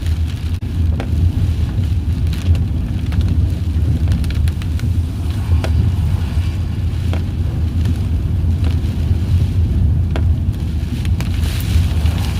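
Car driving, heard from inside the cabin: a steady low rumble of road and engine noise, with scattered sharp ticks of rain striking the car.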